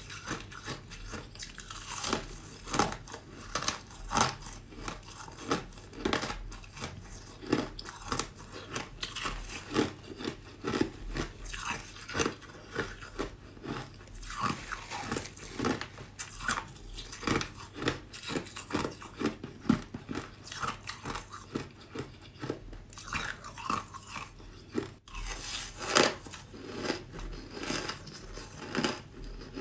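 A person biting and chewing ice close to the microphone: a steady run of sharp, crisp crunches, about one or two a second, with a brief break about 25 seconds in.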